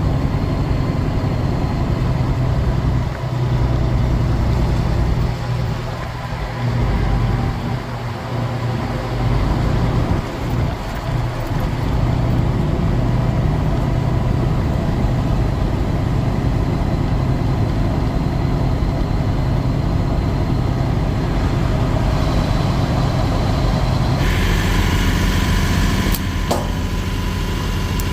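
Kenworth semi-truck's diesel engine running steadily, with a few brief drops in level in the first ten seconds. A hiss comes in about three-quarters of the way through, followed by a sharp click.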